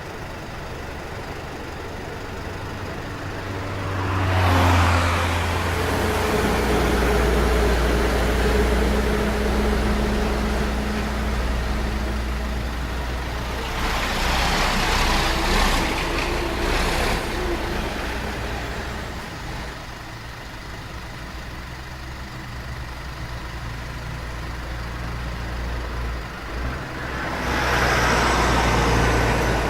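Highway traffic: vehicles pass three times, about four seconds in, around fifteen seconds in and near the end, each swelling and fading, over a steady low engine idle.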